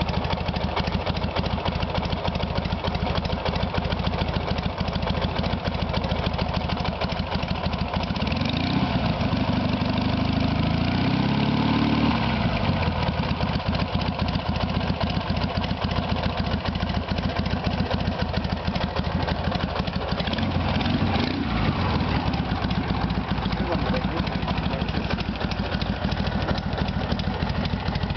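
Dnepr MT-11 motorcycle's 650 cc flat-twin engine idling steadily, revved twice: a longer rise and fall about eight seconds in, and a shorter one about twenty seconds in.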